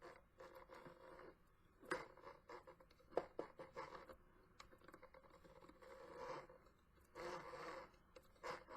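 Faint handling noises at a mini sewing machine: scattered light clicks and a few short scraping rustles, with a longer scratchy stretch near the end.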